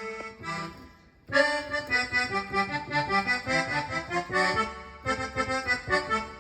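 Octave-doubled accordion sample played on a Medeli AKX10 arranger keyboard: a melodic phrase of chords and short notes, which stops for a moment about a second in, then starts again.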